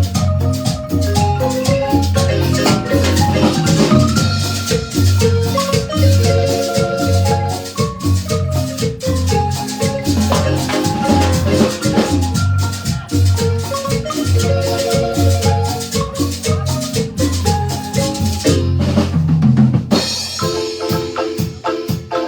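Marimba band playing a lively dance tune, with drums and a steady bass beat. Near the end the beat breaks off briefly before the music carries on with held chords.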